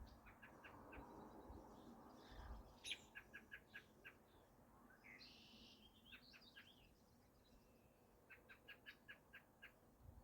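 Faint wild birdsong: three runs of short, quick high chirps, each run of about six notes, with a brief buzzier call in between, over a soft outdoor hiss.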